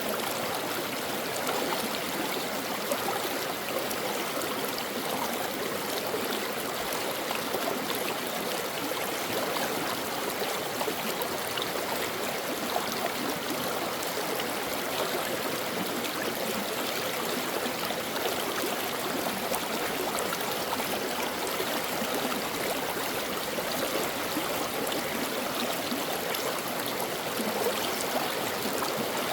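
Brook water flowing steadily, a continuous even babble with no breaks.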